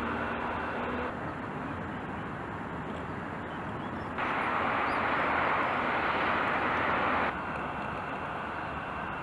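Steady road and wind noise inside a moving car, with no clear tones. The level jumps up abruptly about four seconds in and drops back about three seconds later.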